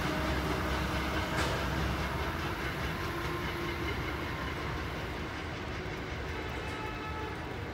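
SEPTA passenger train, with an ACS-64 electric locomotive pushing at the rear, running away along the track. Its wheel and rail noise slowly fades as it recedes, with one sharp click about a second and a half in.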